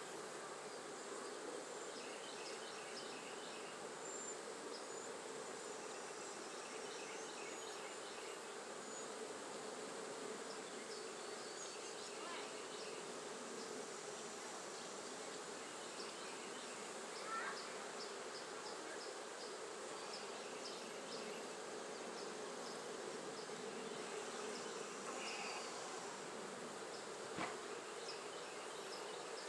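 Steady buzzing hum of a honey bee colony around an opened hive, with a single brief knock near the end.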